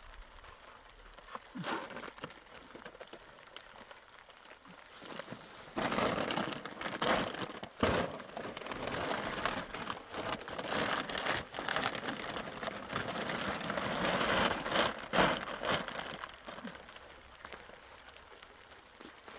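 Plastic sheeting crinkling and rustling as it is handled, loudest and most continuous from about five seconds in until about sixteen seconds in, quieter before and after.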